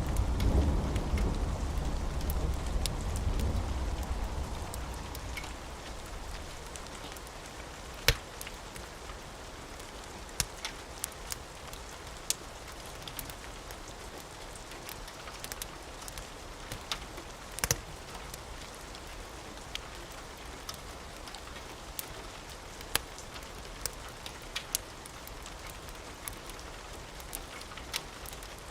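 Steady rain with a low thunder rumble that dies away over the first few seconds. Scattered sharp pops from a crackling wood fire, two of them louder, come through the rain.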